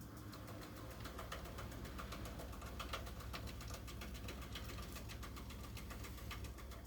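Miele W1 washing machine mid-wash in its PowerWash process: a steady low drum-motor hum with a scatter of faint ticks and splashing as water and laundry move in the turning drum.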